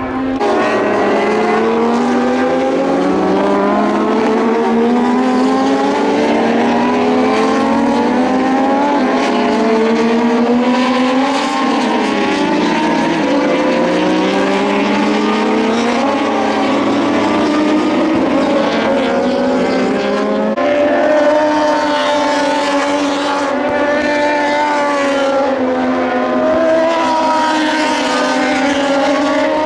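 Several Moto2 racing motorcycles with Triumph 765 cc three-cylinder engines running hard at once. Their many engine notes climb and drop over each other as they rev up and change gear.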